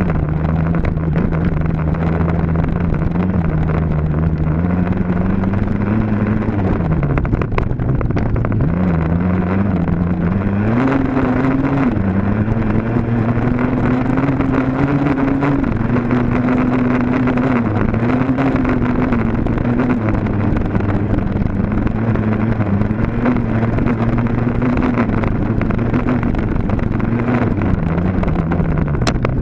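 Dirt bike engine running hard under racing throttle, its pitch rising and falling as the rider works the throttle and gears, with a sharp climb in revs about ten seconds in.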